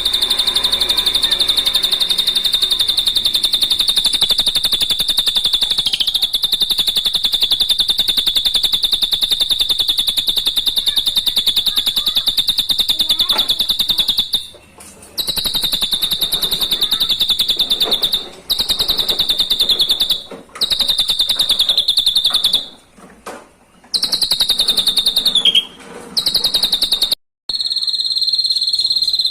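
Drongo (srigunting) song: a loud, high trill of very fast pulses held on nearly one pitch. It runs unbroken for about half the time, then comes in stretches with several short breaks. After a brief gap near the end, a slightly higher, steadier note follows.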